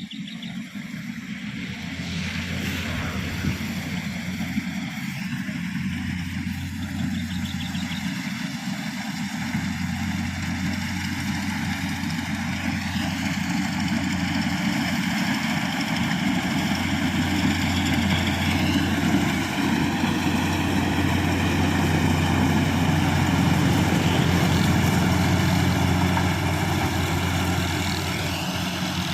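Kubota combine harvester's diesel engine and threshing machinery running steadily, growing gradually louder as it comes closer, with slight shifts in engine pitch now and then.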